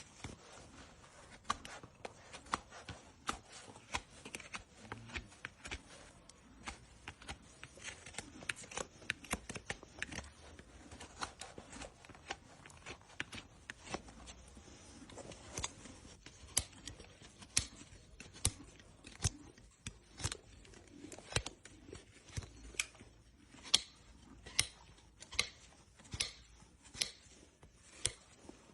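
Trimming tools cutting a horse's overgrown hoof: a long run of sharp snips and clicks, irregular at first and then coming about one or two a second in the second half.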